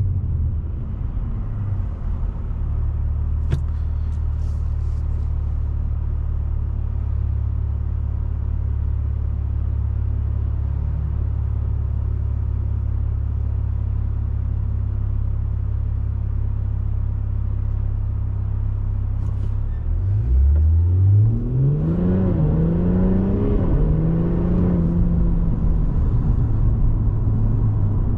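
Infiniti Q60 Red Sport's twin-turbo V6 with the Infiniti Performance exhaust, droning steadily at low revs while cruising. About twenty seconds in, the revs climb sharply under acceleration and the exhaust note rises in pitch, then settles and eases back.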